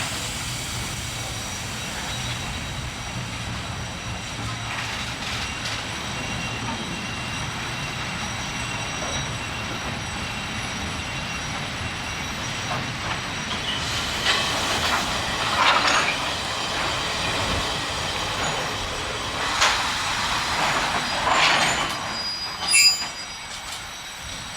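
Taiwan Railway freight train's wagons rolling through the station with a steady rumble, and short high-pitched wheel squeals several times in the second half, the loudest near the end.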